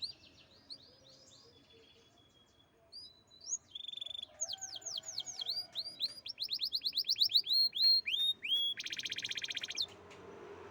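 Domestic canary singing: runs of rapidly repeated whistled notes, each sweeping downward, soft at first and louder from about three seconds in, closing with a fast buzzy trill near the end.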